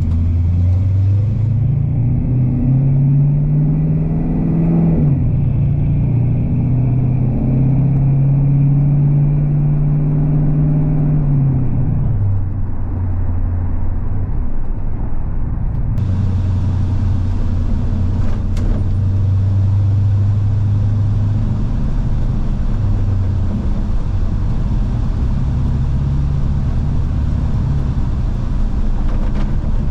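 LS V8 in a 1981 Chevrolet C10 pickup driving, freshly fitted with 3.42 gears and a Duragrip posi rear end. The engine note climbs as the truck accelerates, drops suddenly at a shift about five seconds in, holds, falls again around twelve seconds, then runs at a fairly steady cruise with small rises and falls.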